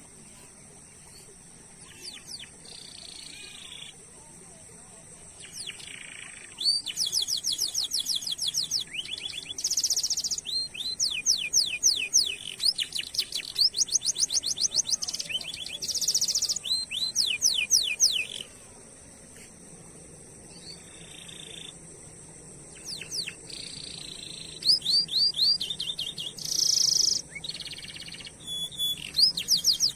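Domestic canary singing: a few scattered notes at first, then long rapid rolls of repeated sweeping high notes from about seven seconds in, a short pause, and more rolls near the end.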